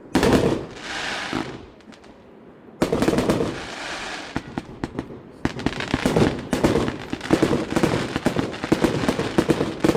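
Fireworks display: a loud burst right at the start, another about three seconds in, then from about five and a half seconds on a dense run of crackling bangs.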